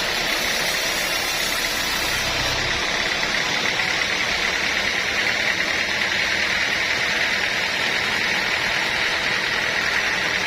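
Sawmill saw running steadily through wood: a loud, even, hissing drone with a low hum that drops out a few seconds in.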